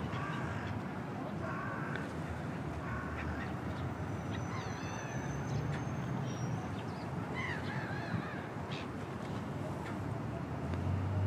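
A few short bird calls over a steady low outdoor rumble.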